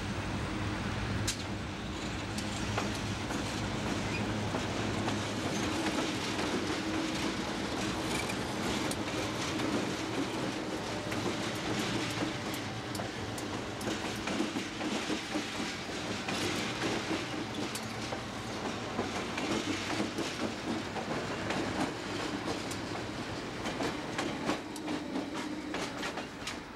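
Conrail GE diesel locomotives passing close by with their engines running, then a string of empty coal hopper cars rolling past, wheels clacking over the rail joints.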